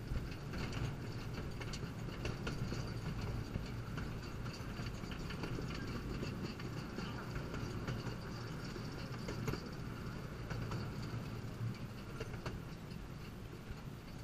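Narrow-gauge train running, heard from an open passenger car: a steady low rumble of wheels on the track with scattered clicks and knocks, easing slightly near the end.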